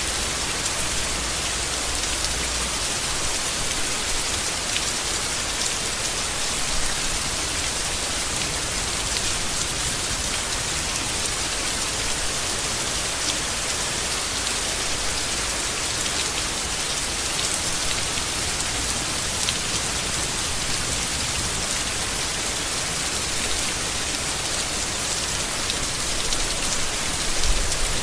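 Steady rain falling on foliage: an even hiss, with scattered ticks of single drops.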